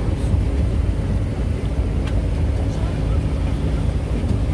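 Steady low rumble of a moving train, heard on board, with a few faint clicks.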